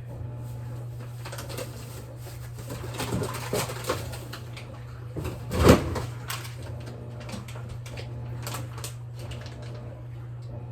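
Steady low hum of a washing machine running, with scattered knocks and clatter; the loudest, a single thump, comes a little past halfway.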